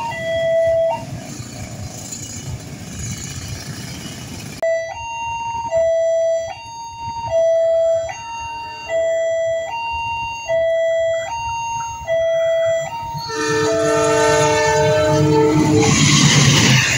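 Level-crossing warning alarm sounding two alternating tones, each about two thirds of a second, with a burst of traffic noise between runs of the alarm. About 13 seconds in, a diesel locomotive's multi-tone horn sounds for about three seconds. Near the end the locomotive-hauled Argo Bromo Anggrek express passes close by with loud rail and engine noise.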